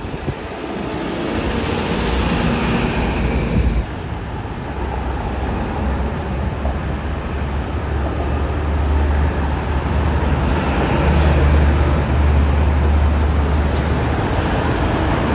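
Road traffic: a heavy vehicle's engine rumbling low under tyre and road noise. The sound changes abruptly about four seconds in, then the low rumble builds and grows louder toward the end.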